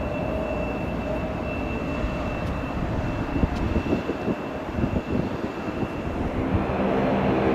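Aircraft engine noise: a steady whine with two held tones over a rushing sound, uneven low rumble in the middle, and near the end a louder humming set of engine tones comes in as another aircraft draws closer.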